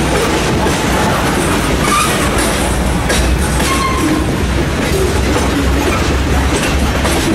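Loaded freight train of covered hopper cars rolling past close by. There is a steady heavy rumble, with wheels clacking rhythmically over the rail joints.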